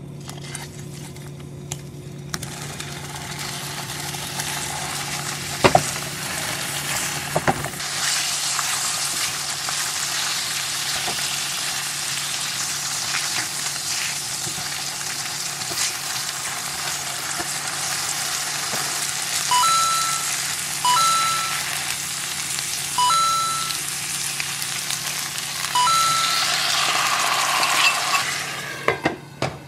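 Tofu slices pan-frying in sesame oil in a frying pan: a steady sizzle, with two sharp spatula knocks about six and seven and a half seconds in. Near the end the sizzle surges louder as the seasoning sauce and vegetables go in.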